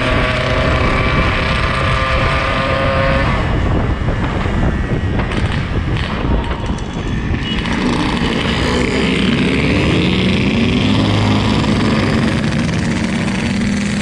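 Yamaha RX-King 135's single-cylinder two-stroke engine running under way: a steady note for the first few seconds, a stretch of rushing noise where the note weakens around the middle, then the engine note returns and its pitch shifts up and down as the revs change.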